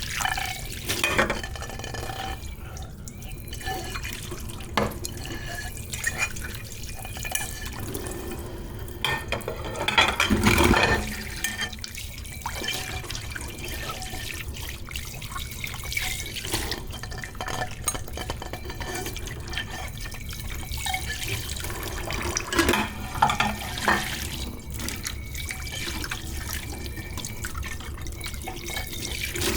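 Dishes being washed in a kitchen sink: water from the tap running and splashing, with scattered clinks and knocks of dishes, and a louder splash about ten seconds in.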